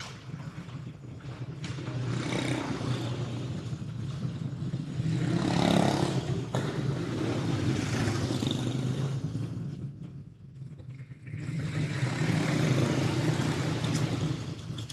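A pack of racing kart engines running as the field circles the track. The sound swells as the karts pass about six seconds in, dips briefly around ten seconds, and swells again.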